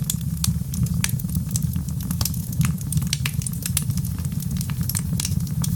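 Wood fire burning in a fireplace, with many sharp, irregular crackles and pops over a steady low rumble.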